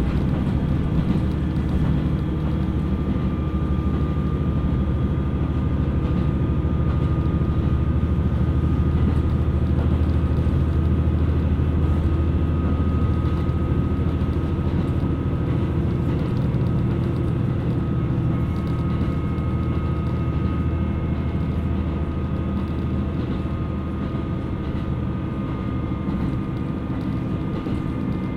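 KiHa 127 series diesel railcar running between stations, heard inside the car: a steady low rumble of engine and wheels on rail with a thin constant whine, easing slightly near the end.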